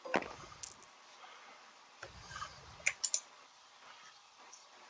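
Computer keyboard and mouse clicks: a few sharp clicks near the start and a short cluster about three seconds in.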